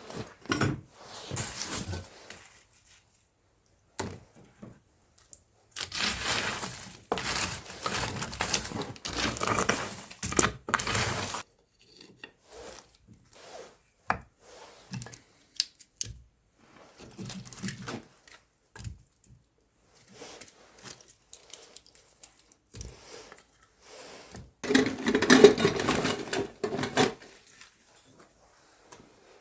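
Intermittent handling noises: rustling and crinkling with scattered knocks, the longest stretches of rustling about six seconds in and again near the end.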